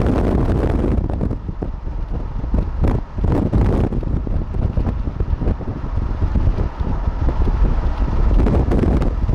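Gusty wind buffeting the microphone: a loud, low rumble that surges and dips from moment to moment.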